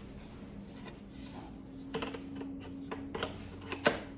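Hard plastic parts of a cordless stick vacuum being handled, giving light scattered clicks and taps, then a sharper click near the end as the extension tube is pushed into the vacuum body.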